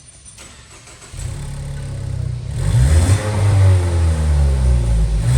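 Ford Mustang engine heard through a valved Valvetronic performance exhaust. It comes in suddenly about a second in, gets much louder about a second later, and then rises and falls in pitch as it is revved.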